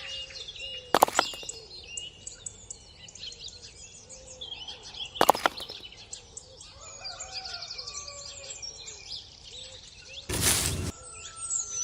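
Birds chirping and twittering throughout, with two sharp knocks about one and five seconds in and a short loud burst of noise near the end.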